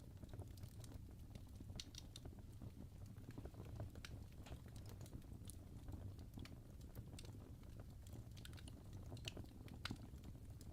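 Fire crackling faintly: irregular small pops and snaps, some close together, over a low steady rumble.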